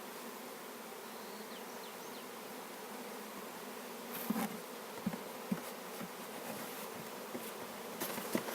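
Swarm of honeybees buzzing steadily in a hive box, just after being scooped in from a cardboard box. A few light knocks come in about halfway through and near the end.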